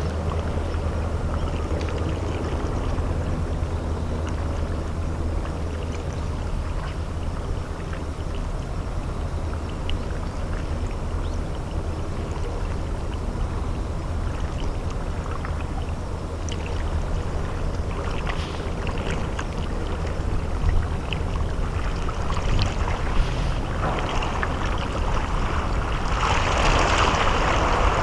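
Engine of the underwater disposal mother ship YDT01 running with a steady low hum as it comes into port, under wind and water noise. About two thirds of the way through, a louder rush of water builds, the vessel's wash.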